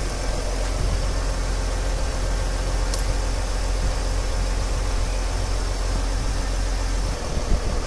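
Mercedes GL 350 CDI's V6 diesel engine idling steadily, kept running while its automatic transmission is refilled with fluid.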